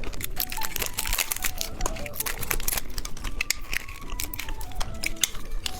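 Candy packaging being handled and torn open: dense, irregular crinkling and tearing, with faint music underneath.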